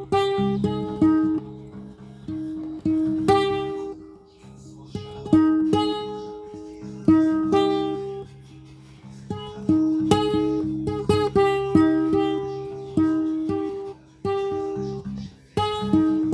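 Solo acoustic guitar playing a slow instrumental, plucked notes and chords ringing out and fading in phrases every second or two.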